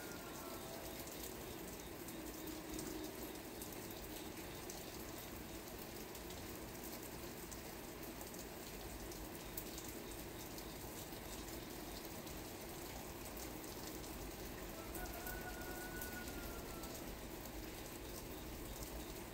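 Steady rain falling, with scattered individual drops ticking through the even hiss. A faint thin, drawn-out tone sounds at the very start and again about fifteen seconds in.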